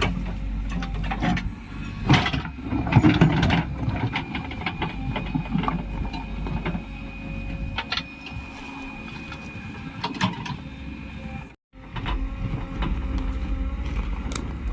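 JCB 3DX Plus backhoe loader's diesel engine running steadily, with knocks and clatter from the digging arm and bucket, busiest a couple of seconds in. The sound cuts out briefly a few seconds before the end.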